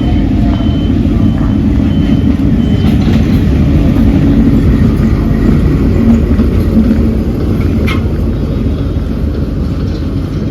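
Train running on the track with a loud, steady low rumble. A faint high beep repeats about twice a second for the first few seconds.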